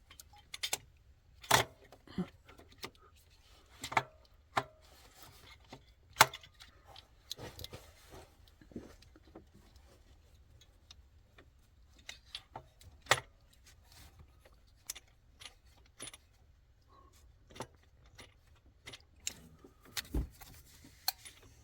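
Irregular metallic clicks and knocks of hand tools and bolts being handled while a starter motor is fitted back into place, with a few sharper knocks standing out.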